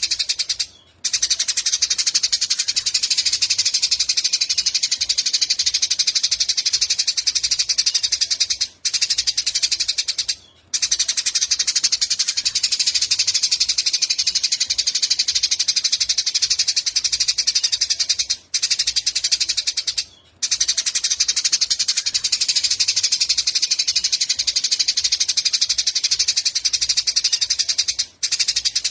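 Eurasian tree sparrows chattering in a dense, rapid, continuous chorus of high chirps, broken by short silent gaps a few times.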